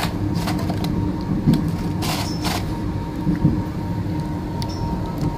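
Running noise heard inside a moving passenger train carriage: a steady low rumble with a faint constant hum, a few light knocks, and two short hisses about two seconds in.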